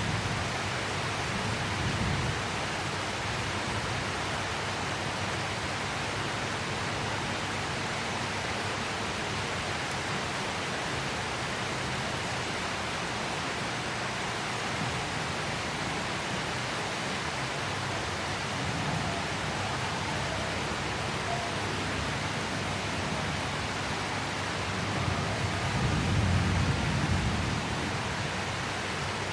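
Heavy tropical rain falling steadily, an even hiss. A low rumble swells briefly about two seconds in and more strongly about 25 seconds in, then fades.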